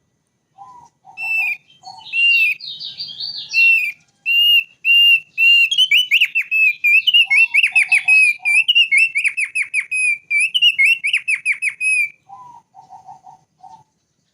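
Thick-billed white-eye (opior paruh tebal) singing: a long, fast run of clear whistled notes, some sliding down in pitch, that breaks off about twelve seconds in. Short clusters of lower chattering notes come near the start, in the middle and again at the end.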